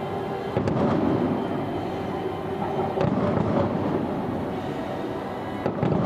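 Distant fireworks shells bursting over a continuous low rumble of booms, with three sharper bursts: about half a second in, about three seconds in, and near the end.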